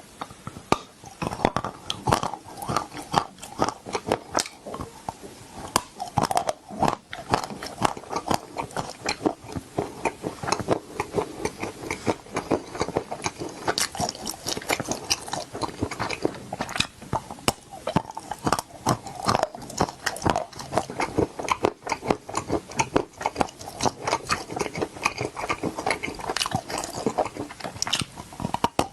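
A person biting and chewing crunchy food, with several crisp crunches a second.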